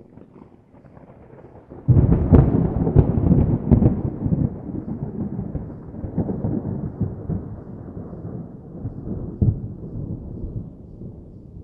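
Thunder: a faint low rumble, then about two seconds in a sudden loud crackling clap that rolls on as a long rumble, slowly fading with a few further swells.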